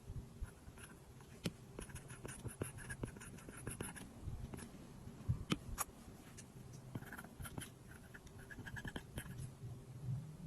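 Apple Pencil tip tapping and sliding on an iPad glass screen: a run of sharp taps and short scratchy strokes as lines are drawn and coloured in.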